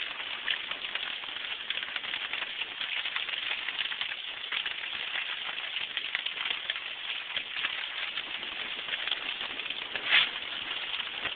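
Steady rain pattering, with a brief louder sound about ten seconds in.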